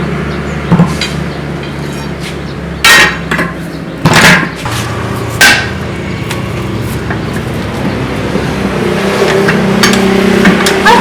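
Several loud hammer blows on metal at irregular intervals, over the steady hum of a running motor, during truck tire work.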